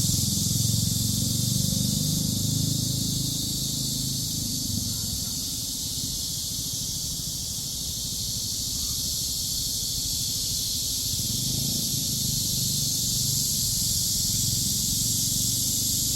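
A cicada chorus: a steady, dense high-pitched buzz that carries on unbroken. A low rumble runs underneath, stronger in the first few seconds and again from past the middle.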